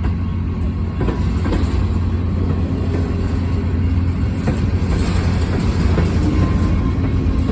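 Loaded trash cars of a freight train rolling past: a steady low rumble with the wheels clicking over the rail joints.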